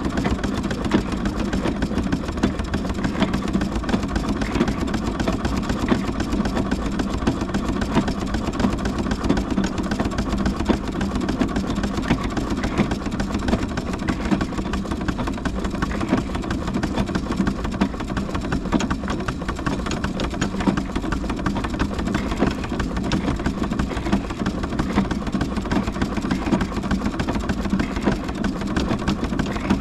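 Large steam engine running on the move, a steady mechanical clatter with a constant hum underneath.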